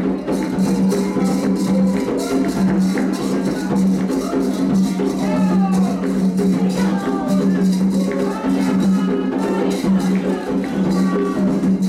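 Candomblé ritual music for Oxum: hand drums and a shaker-like rattle keeping a steady, quick rhythm, with voices singing over it.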